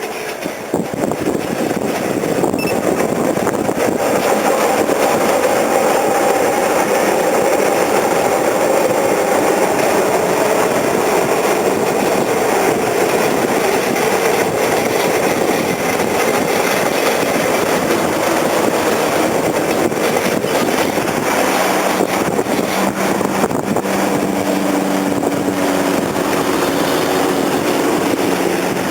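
Steam-hauled train running past, a loud steady rumbling noise. Faint steady tones join in over the last several seconds.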